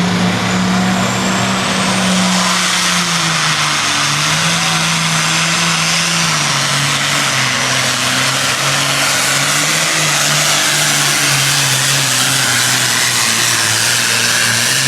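Pulling vehicle's engine at full throttle during a pull, running loud and steady with its pitch sagging gradually in steps as it drags the weight sled down the track.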